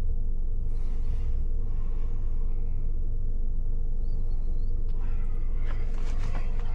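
Steady low rumble of the yacht's running machinery, with a few clicks and rattles near the end.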